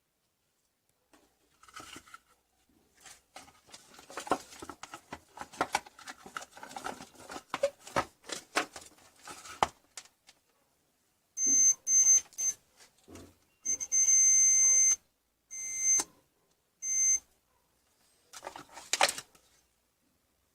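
Clicks and light clattering of handling, then a series of loud electronic beeps of uneven length, one held for over a second, followed by a single sharp click.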